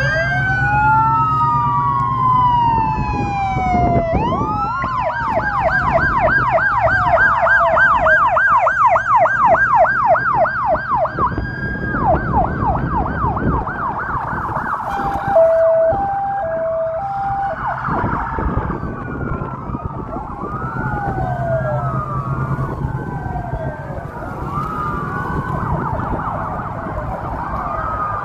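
Emergency vehicle sirens sounding together: slow rising and falling wails, a fast yelp for several seconds, a brief two-note hi-lo tone about halfway, then several wails overlapping out of step.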